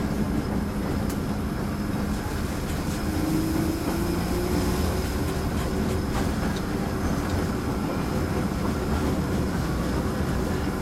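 Elevated electric railway car running on its track, heard from inside the car: a steady rumble of wheels on rails with a low hum that shifts up in pitch about three seconds in.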